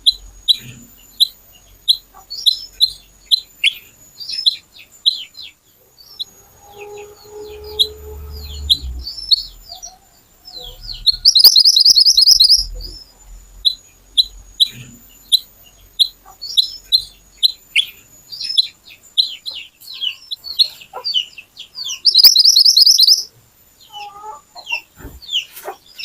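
Mantenan (kuniran) songbird singing in a long run of short, sharp high chirps, twice breaking into a loud, rapid burst, the sharp 'shooting' song prized in this bird. A lower call and a rumble are heard briefly in the background about seven seconds in.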